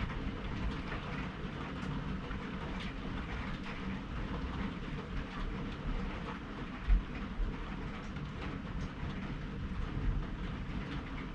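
Rain falling during a thunderstorm, with fine scattered pattering over a steady low rumble. A single low thump stands out about seven seconds in.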